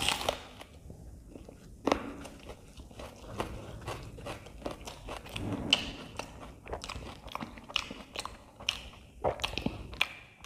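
Close-miked eating of aloo paratha with raw onion: a loud crunchy bite at the start, then steady chewing full of wet mouth clicks and smacks.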